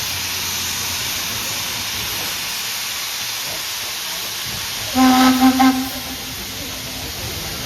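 Steam locomotive's whistle giving a few quick blasts about five seconds in, over a steady hiss of steam.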